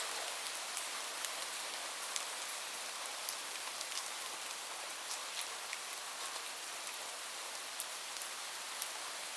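Steady rain hissing, with individual drops ticking sharply here and there.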